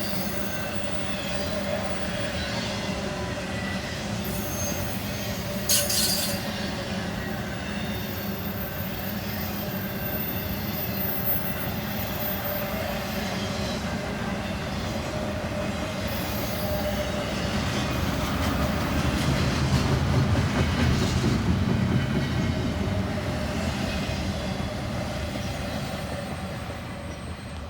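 Intermodal freight train cars rolling past, with steady wheel-on-rail noise and faint wheel squeal. A sharp clank comes about six seconds in, the noise swells past the middle, and it fades near the end.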